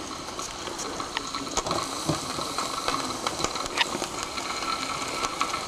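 Mamod TE1A miniature steam engine hissing and sputtering with steam, with scattered small crackles and pops. The engine is under steam but stalled, its piston not moving.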